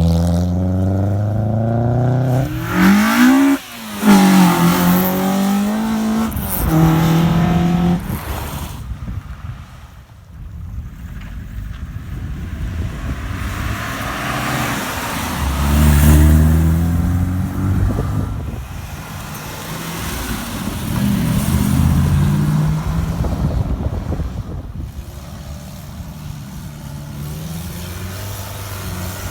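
Car engines revving and accelerating past, one after another, with one sharp rev climbing and dropping about three to four seconds in.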